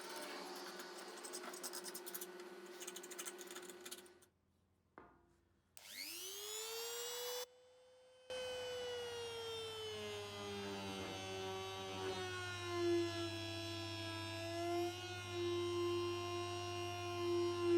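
Small electric power tool running with a steady whine and some clicking. After a short break it spins up with a quickly rising whine. It then runs steadily over a low hum, its pitch dipping briefly now and then as it takes load.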